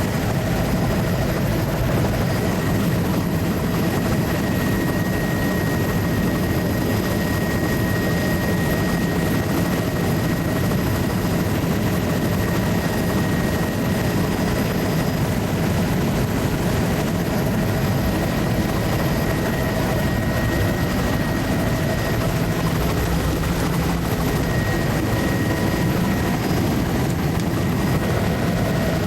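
Steady engine and airscrew drone of a low-flying survey aircraft, heard from on board, holding an even level with a few faint steady tones over the noise.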